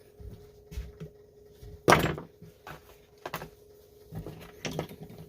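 Pliers and metal parts being handled on a workbench: scattered light clicks and knocks, with one louder knock about two seconds in, over a faint steady hum.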